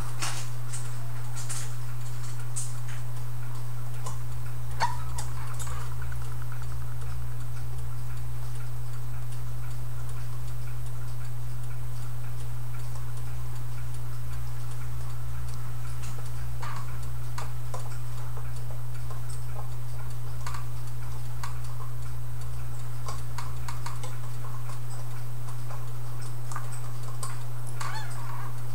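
Clock ticking, heard as light clicks at uneven spacing over a steady low hum.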